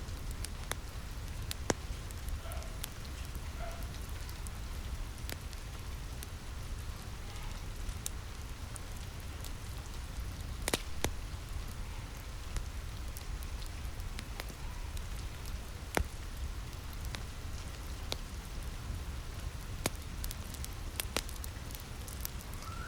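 Steady rain with a low rumble, mixed with the scattered sharp pops and crackles of a wood fire; one pop about halfway through stands out.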